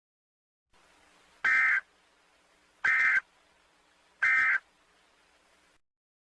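Three short, identical bursts of screechy digital data tones, each about a third of a second long and evenly spaced about a second and a half apart. They are Emergency Alert System end-of-message bursts closing a mock alert broadcast.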